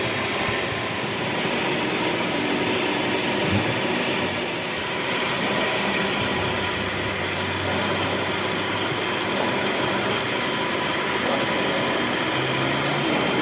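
A workshop machine running steadily with a metallic rasp, and a thin high squeal that comes and goes about five to nine seconds in.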